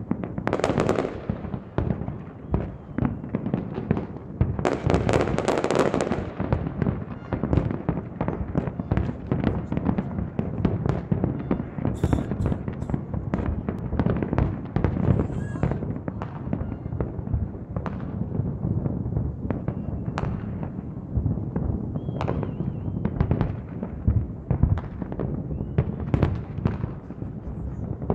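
New Year's Eve fireworks going off continuously: a dense, unbroken run of bangs and crackling, with a louder burst of crackle about five seconds in.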